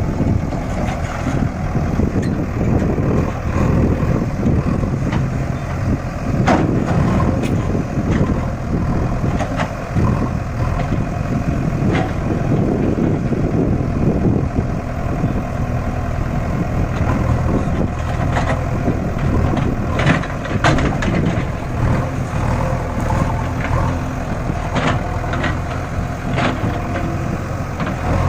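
Tractor diesel engine running steadily under load while pulling a loaded trolley, with occasional sharp clanks and rattles.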